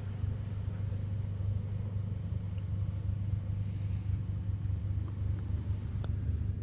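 Steady low idle rumble of the Mercedes CLA45 AMG's engine, heard inside the cabin, with a faint click about six seconds in.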